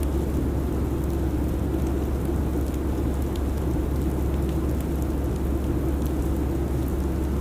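Steady airliner cabin noise: a constant low rumble with a hum, and faint scattered ticks on top.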